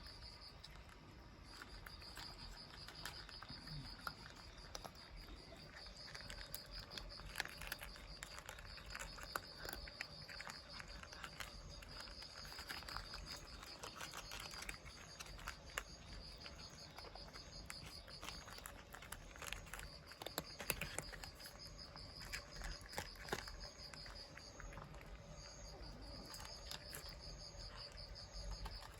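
Insects trilling in long pulsed bouts with short breaks, with scattered faint clicks and ticks.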